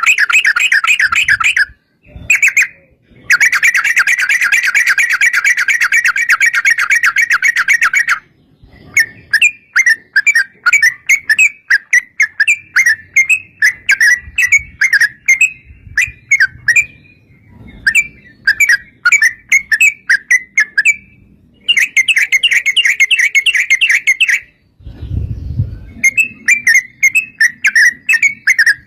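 Yellow-vented bulbul (trucukan) singing a loud, fast chattering roll of repeated notes, in long unbroken runs and shorter bursts. A brief low rumble comes near the end.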